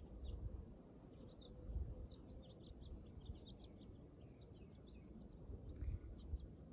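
Small birds chirping, with many short, high chirps coming thick and fast. Faint low rumbles swell and fade underneath.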